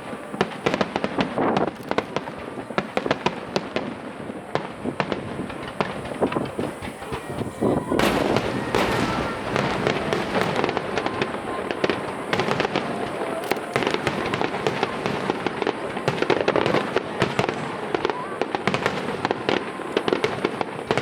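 Aerial fireworks finale barrage: a dense, unbroken string of shell bursts and crackling, with an especially loud burst about eight seconds in.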